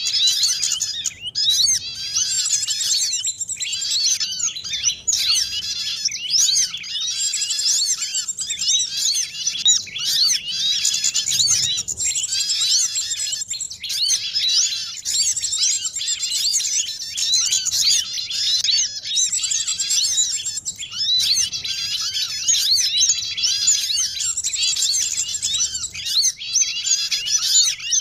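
Dense chorus of many small songbirds chirping and twittering over one another without a pause, with quick high notes packed closely together. It is a mixed small-bird lure call, used to draw birds such as sunbirds, white-eyes and prinias down to a trap.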